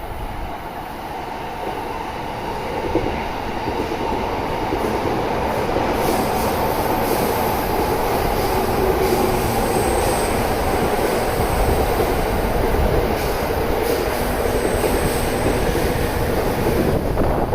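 Electric commuter trains running together on parallel tracks: a steady rumble of wheels on rail that grows over the first few seconds and then holds.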